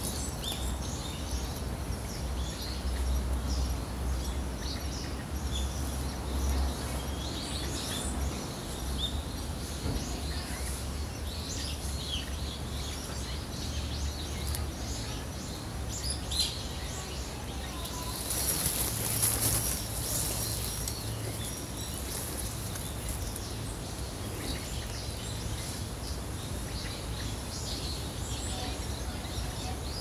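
Small birds chirping with many short, high calls scattered throughout, over the steady rush of a small waterfall and stream.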